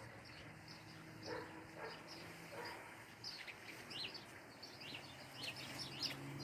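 Small birds chirping faintly, with many short high calls scattered throughout, over a faint steady low hum.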